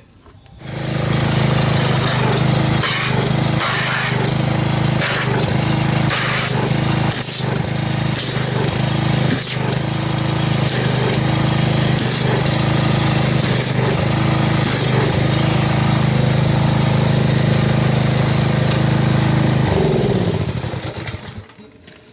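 Pressure washer running steadily while spraying soap through a foam cannon, with a low motor hum and spray hiss; the motor winds down with falling pitch near the end.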